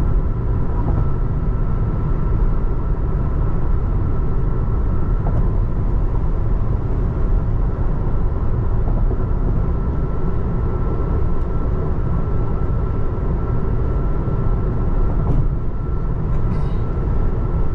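Steady road and tyre rumble inside the cabin of a moving 2024 Tesla Model 3 electric car, with a faint steady high whine.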